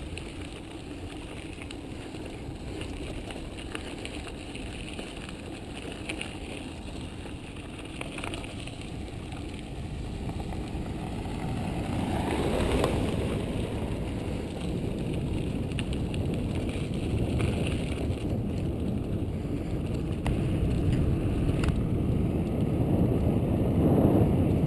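Wind rushing over the microphone with tyre and road noise from bicycles riding along, growing gradually louder toward the end.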